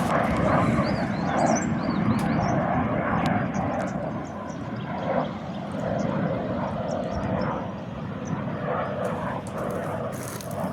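A military training aircraft's engine sounding steadily in flight. A few bird chirps come through in the first couple of seconds.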